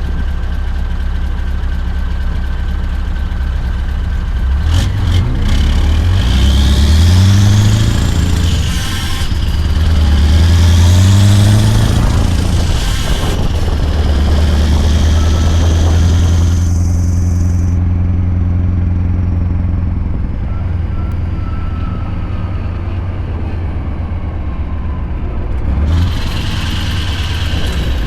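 Scania R580 truck's V8 diesel with a straight-piped 8-inch exhaust, pulling under load. The engine note rises twice, about five and nine seconds in, then holds steady, with a high whine rising and falling above it.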